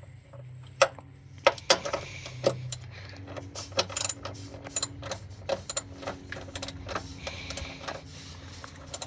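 A socket ratchet clicking and clacking irregularly as it is worked back and forth to turn out a truck's oil drain plug, with the odd knock of metal on metal.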